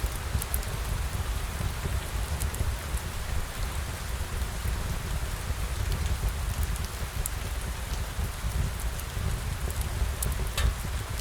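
Steady rain falling: a continuous patter over a deep low rumble, with scattered sharp ticks, the strongest a little before the end.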